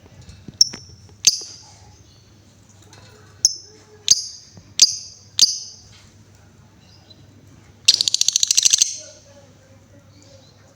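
Female Paskun lovebird calling: six sharp single chirps ('ngetik'), then about eight seconds in a fast chattering trill lasting about a second ('ngekek').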